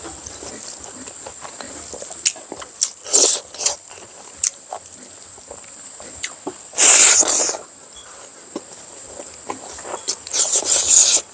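Close-up eating sounds: chewing with scattered small clicks and four short, loud, noisy bursts of biting or slurping, the longest about 7 seconds in. A steady high-pitched whine runs beneath.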